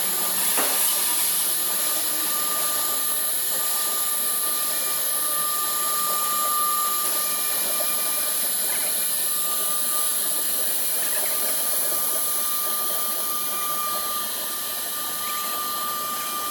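Woodworking CNC router spindle running steadily as it engraves and cuts MDF: an even machine noise with a high, held whine.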